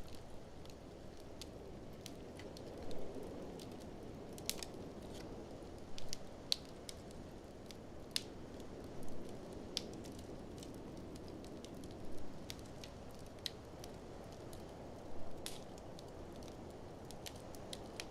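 Wood fire in a fireplace crackling, with frequent sharp pops and snaps and a louder pop about every three seconds, over the steady low rush of blizzard wind that swells and eases.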